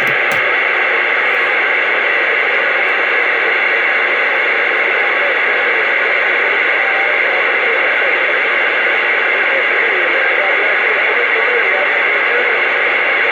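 CB radio receiver with the squelch open, giving a loud, steady rush of static with faint, garbled voices of distant stations buried in it.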